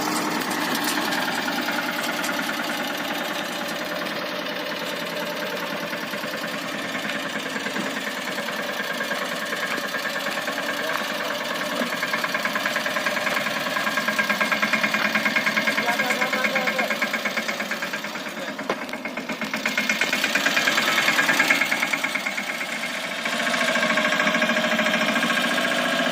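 Mahindra Yuvraj 215 NXT mini tractor's single-cylinder diesel engine running with a rapid knocking beat, its sound swelling and dropping back a few times in the second half.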